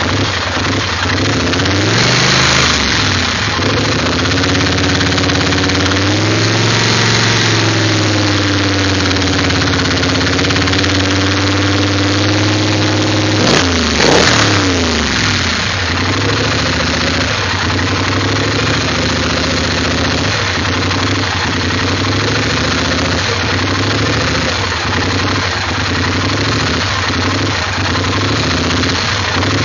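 Engine idling roughly, with an uneven beat and irregular stumbles. The revs drift up and down slowly, and there is one brief blip of the throttle about fourteen seconds in.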